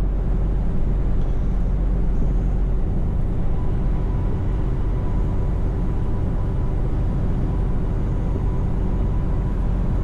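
Scania V8 truck engine running steadily under way, with road and tyre noise.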